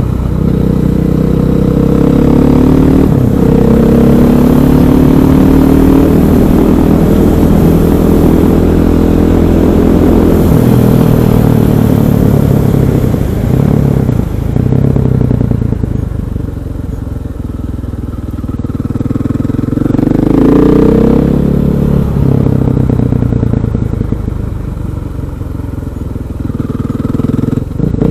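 KTM 500 EXC's single-cylinder four-stroke engine running on the road, its pitch rising and falling with the throttle and gear changes. Through the middle it settles to lower, quieter revs, then rises briefly and drops back.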